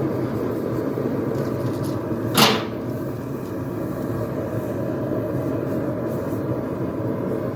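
A blacksmith's forge runs with a steady roar. A single sharp knock comes about two and a half seconds in.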